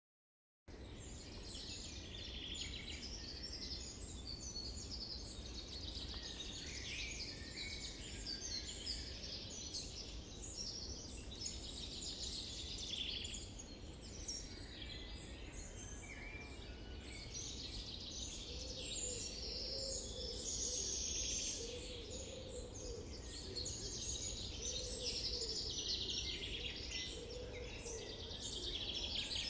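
Many small birds chirping and twittering at once, a dense chorus of short, high calls over a steady low rumble. It starts suddenly after a moment of silence.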